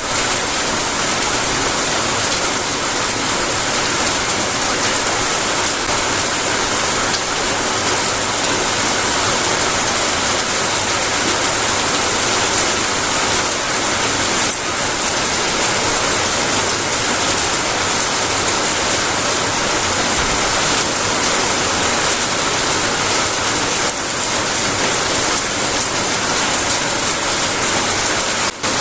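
Steady rain: an even, unbroken hiss, with brief dips about halfway through and again just before the end.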